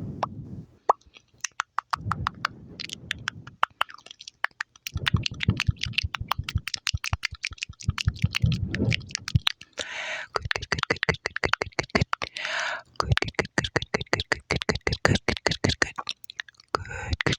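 Close-up mouth sounds: rapid wet clicks, smacks and pops, with stretches of low rumble under them in the first half.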